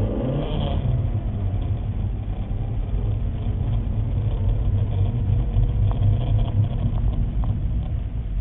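Car engine running at low revs with a steady low rumble, while the car is reversing.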